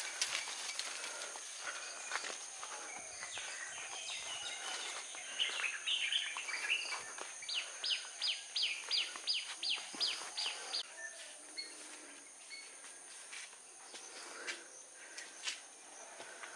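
Outdoor garden ambience with a bird calling a quick run of about nine sharp, falling chirps, roughly three a second, in the middle. Around it there are scattered light rustles and clicks and a steady high insect whine.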